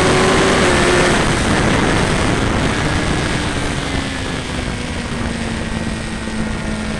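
Sport motorcycle engine running at high revs under wind rush on the onboard microphone; about a second in the throttle closes and the engine note drops, then falls slowly as the bike engine-brakes into a corner.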